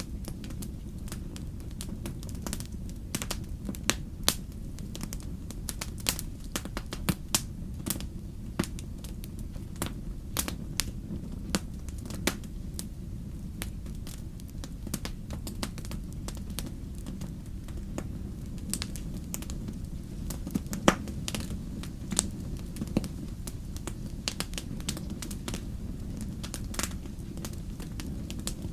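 Wood campfire crackling, with irregular sharp pops over a steady low rumble of the burning fire; one louder pop comes about two-thirds of the way through.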